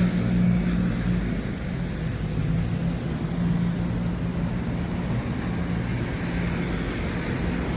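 Motor vehicle engine running close by, a steady low hum that eases slightly at first and then holds even.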